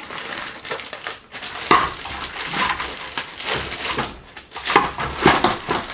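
Kitchen cooking prep: irregular knocks and crunching, crinkling handling noises of pots, utensils and food packaging.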